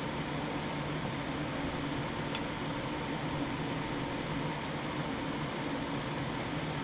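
Steady hum and hiss of a fan running, with a few faint light clicks.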